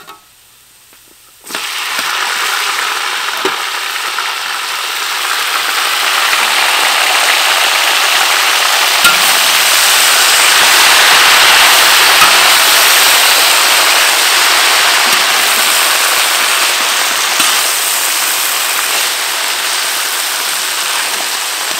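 Food frying in hot oil, a loud sizzle with dense crackling. It starts suddenly about a second and a half in, swells toward the middle and eases slightly near the end.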